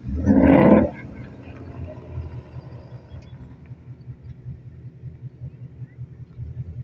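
Car engine idling with a low, pulsing rumble, after a loud burst lasting under a second near the start.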